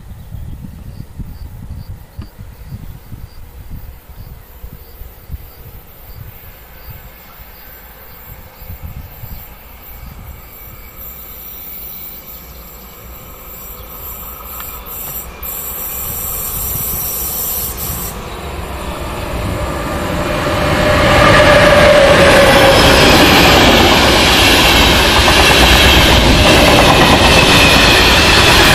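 Locomotive-hauled passenger train approaching and passing at speed. A distant rumble grows steadily louder over the second half, and about two-thirds of the way in it becomes the loud, steady rolling of wheels on rails as the coaches go by close at hand.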